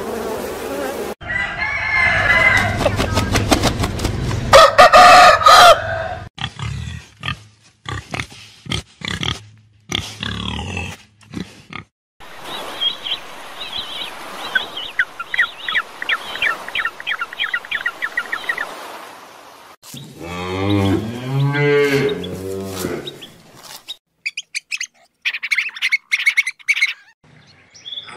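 A string of different animal calls, one short sound after another with abrupt changes every few seconds, among them chicken-like crowing and clucking, a run of quick chirps and a rising-and-falling call.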